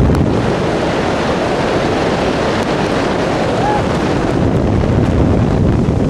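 Steady rush of wind buffeting the microphone of a wrist-mounted camera while sliding down a zip line cable.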